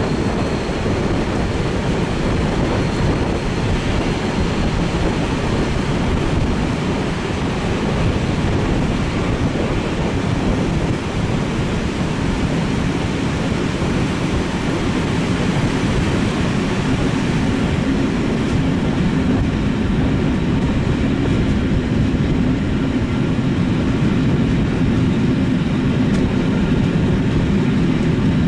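Moving passenger train, heard from aboard a coach: a steady rumble of wheels running on the track. A low steady hum joins about two-thirds of the way through.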